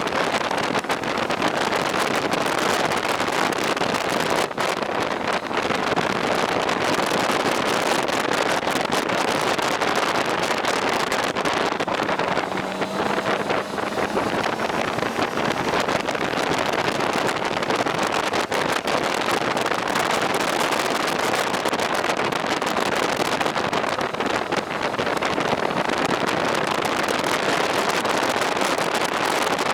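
Steady wind rush on the microphone with road noise from a moving motorcycle.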